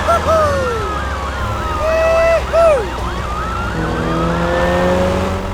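Siren yelping in quick rising-and-falling wails, about four a second, over a steady low engine rumble, with a few separate sliding tones on top. The wailing fades out a little after halfway.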